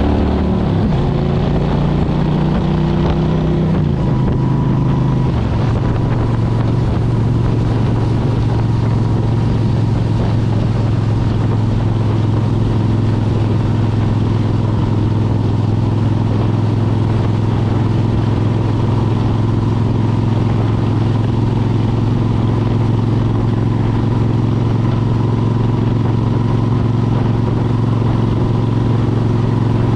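2003 Suzuki Intruder 1400's V-twin engine through Vance & Hines Classic exhaust pipes, heard from the rider's seat. Its pitch steps down about five seconds in, then it holds steady at cruising speed, with a steady rush of wind throughout.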